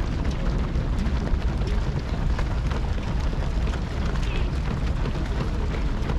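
Many marathon runners' footsteps going past, a dense run of light ticks, over a steady low rumble of wind on the microphone.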